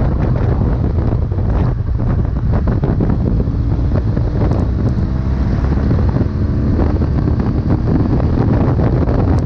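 Strong wind buffeting the microphone over a steady low vehicle rumble, with faint steady tones in the middle.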